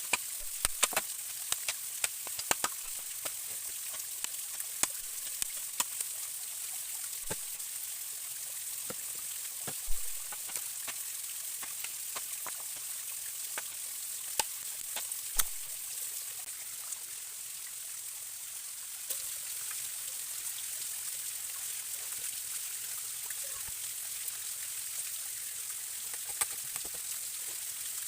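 A forest stream running steadily, with scattered sharp clicks and knocks over it, the loudest about ten and fifteen seconds in, growing sparse in the second half.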